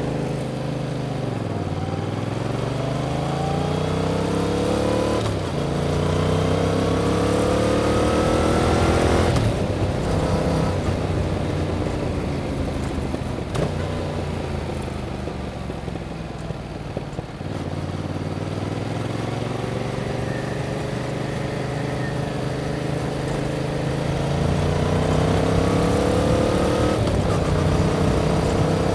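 2021 Yamaha MT-07's 689 cc parallel-twin engine through its stock exhaust, riding in traffic. The pitch settles after easing off, then climbs through the gears with breaks at the upshifts. It drops away again, runs steadily for a few seconds, and pulls up once more with another upshift near the end.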